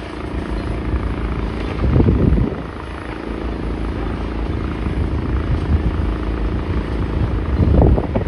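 Heavy demolition machinery running steadily, with a low rumble and two louder low surges, about two seconds in and near the end, that sound like wind buffeting the microphone.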